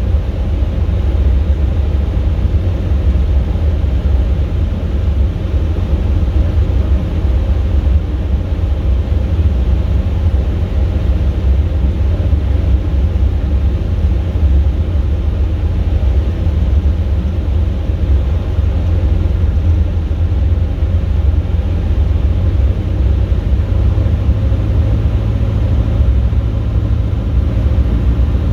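Steady low drone of a Robin DR400 light aircraft's engine throttled back to reduced power for a simulated engine-failure glide, heard from inside the cabin with airflow noise. The drone's pitch shifts slightly near the end.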